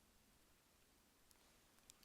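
Campfire burning very faintly: a soft hiss with two sharp crackling pops, one just past the middle and a louder one near the end.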